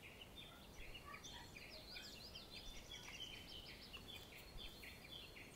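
Near silence, with faint, quick bird chirping running through it.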